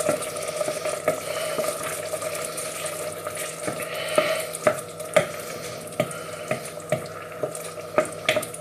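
Risotto rice simmering and sizzling in stock in a pan, stirred with a spoon that clicks against the pan now and then.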